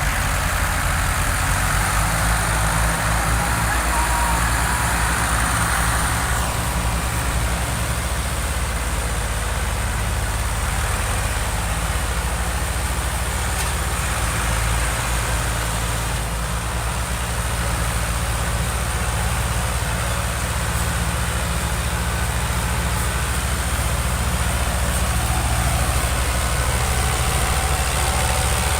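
Diesel tractor engines of a Fiat 640 and a Ford 4610 running steadily while pulling a loaded sugarcane trolley.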